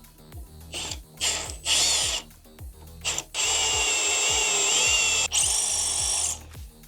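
Power drill drilling out a broken boiler screw in an espresso machine: three short bursts, then a long steady run with a wavering whine and a shorter run after a brief stop.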